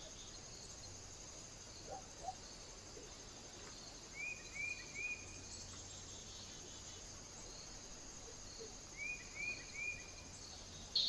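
A small bird calling: a quick run of three short rising chirps, heard twice, over a steady high hiss.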